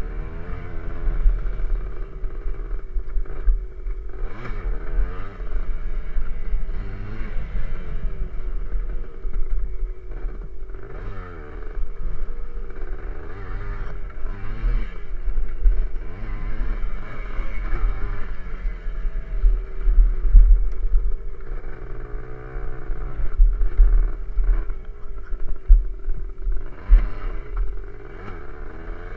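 Small dirt bike engine being ridden, revving up and falling back again and again as the throttle is worked, with a few short clattering knocks along the way.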